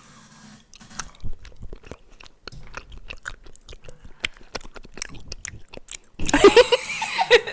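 Close-miked chewing, a string of small wet mouth clicks and crunches from someone eating. Near the end comes a loud burst of voice.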